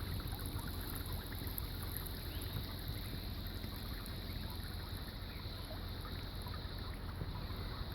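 Running water flowing steadily over a low rumble, with a few faint short bird calls.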